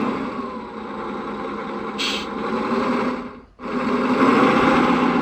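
Servonaut SM7 sound module playing a simulated diesel truck engine through its speaker. There is a short hiss about two seconds in, and the sound cuts out for a moment around three and a half seconds before running again.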